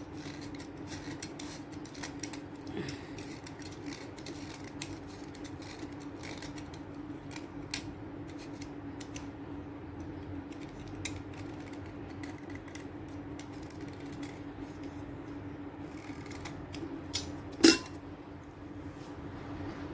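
Slate pencils being cut: scattered crisp clicks and small snaps, with one much louder snap near the end, over a steady low hum.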